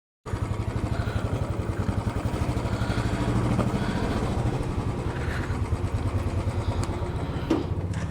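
Royal Enfield Electra 350 single-cylinder engine running at a steady idle, with a fast, even beat, starting abruptly just after the start. A brief knock near the end.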